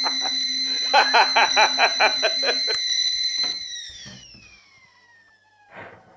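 A person laughing in rapid bursts, about five a second, over a steady high-pitched whistling tone. The laughter stops about two and a half seconds in, and the whistle then falls in pitch and fades away. Two faint soft knocks come near the end.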